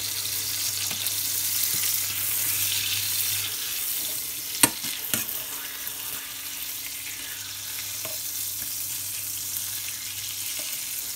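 Chicken breasts sizzling in hot oil in a frying pan as they are turned over, with two sharp clacks of the metal tongs against the pan about halfway through.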